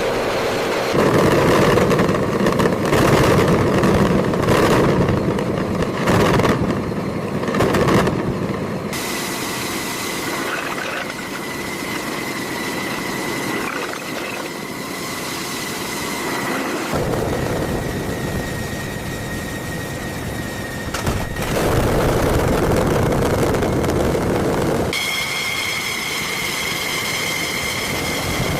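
A run of loud mechanical noises that changes abruptly every few seconds, with a steady high-pitched whine through the middle and a higher, multi-toned whine near the end.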